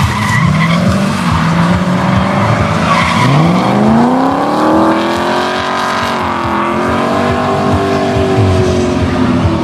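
A drifting car's engine revving hard while its tyres squeal and skid. The engine note climbs steeply about three seconds in, holds high, dips briefly past the middle and rises again.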